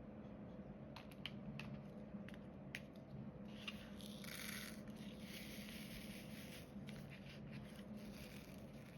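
Diamond painting at close range: scattered light clicks and ticks of resin drills being picked up with the drill pen and pressed onto the sticky canvas, with a rustling scrape of a few seconds about midway. A low steady hum underlies it.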